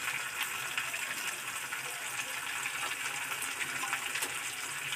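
Hot oil sizzling steadily in a kadai with fried jackfruit and potato pieces, a continuous hiss with faint crackles.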